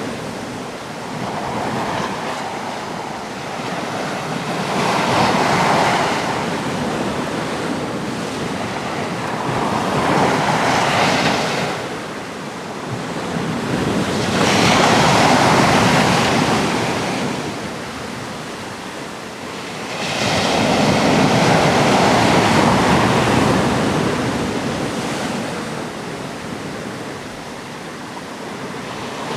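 Sea waves breaking on a rocky coast, surf rising and falling in repeated surges about every five seconds.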